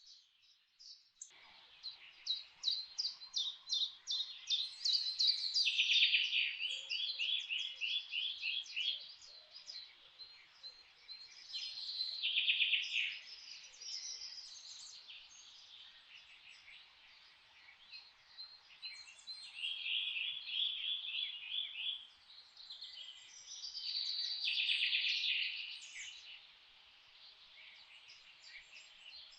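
Forest songbirds singing: several birds overlapping in rapid trills and quickly repeated chirps, louder in bursts of song separated by quieter stretches. A steady hiss of background noise sits beneath them and starts abruptly about a second in.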